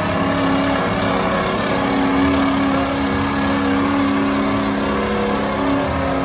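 A truck engine held at high, steady revs, its pitch staying nearly constant.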